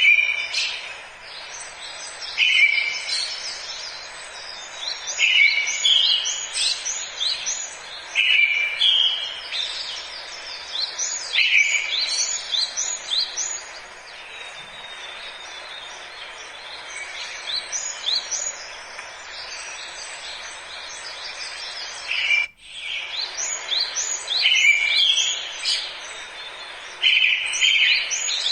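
Forest birdsong: a bird repeats a song about every three seconds, each opening on a lower note and running into quick high twittering, with other chirps between, over a steady background noise. The sound drops out briefly about two-thirds of the way through.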